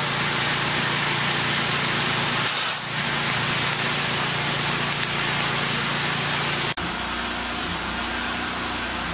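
Volvo Penta 5.7-litre V8 sterndrive engine running steadily with a loud rushing noise over a low hum. About seven seconds in, the sound breaks off sharply and picks up again a little quieter with a different low tone.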